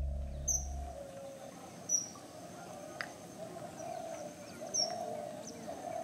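Birds chirping in short, high calls, a few times, over a faint steady natural ambience.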